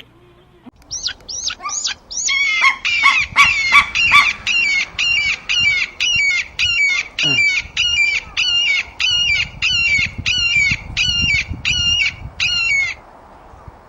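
A bird calling in a long, rapid series of short, sharp, high calls, about two to three a second, stopping shortly before the end.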